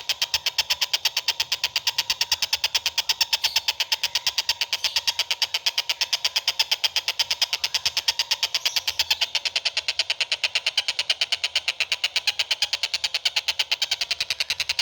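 A bird calling a fast, unbroken series of sharp, high chips at an even rate, like a rapid-fire rattle.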